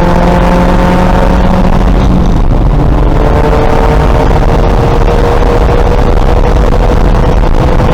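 2000 VW Golf race car's engine running hard under load, its pitch climbing slowly, dropping about two and a half seconds in, then climbing again.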